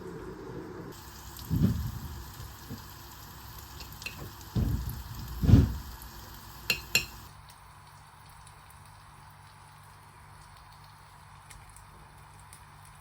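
Food sizzling in a frying pan, with a few dull thumps, the loudest about five seconds in, and two sharp clicks; the sizzle stops about seven seconds in.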